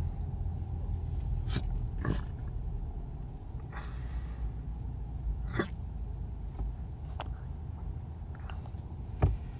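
Car cabin noise while driving: a steady low rumble of road and engine, with a few scattered clicks and a sharper knock near the end.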